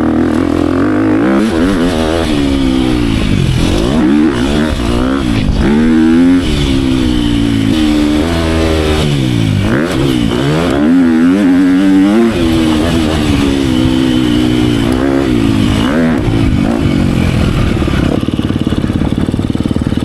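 Motocross bike engine being ridden hard, its pitch climbing and dropping again and again through the first half, then holding steadier near the end.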